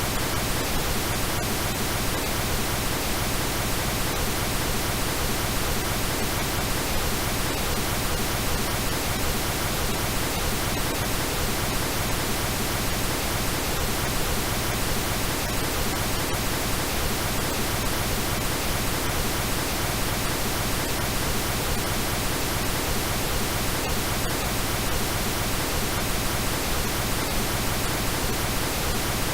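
Steady synthetic pink noise: an even, unbroken hiss that does not change.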